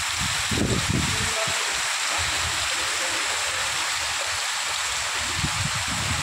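Heavy monsoon rain pouring onto stone paving: a steady, dense hiss. Low rumbling gusts of wind hit the microphone about half a second in and again near the end.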